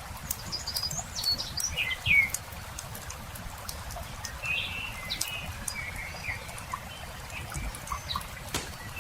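Wood campfire crackling with scattered sharp pops, under small birds chirping and warbling in short phrases. The loudest bird call comes about two seconds in.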